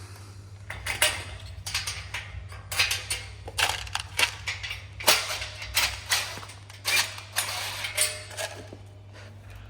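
Metal greenhouse parts clattering and knocking as they are handled: an irregular run of clanks and rattles, with a steady low hum underneath.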